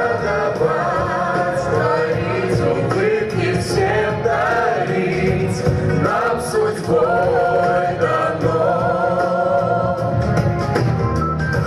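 A song performed with instrumental accompaniment: a woman and a group of men's voices singing held notes with vibrato over a steady backing.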